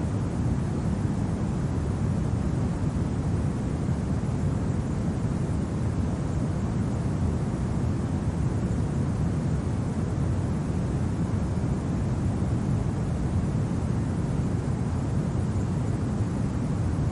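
Steady low winter wind rumbling evenly, with no gusts, tones or distinct events.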